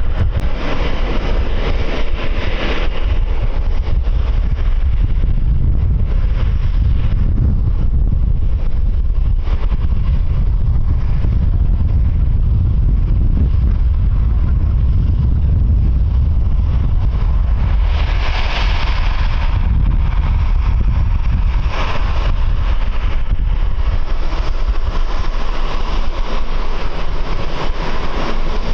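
Strong wind buffeting the microphone in a steady low rumble, with airport aircraft engine noise under it that swells about two-thirds of the way in and again near the end.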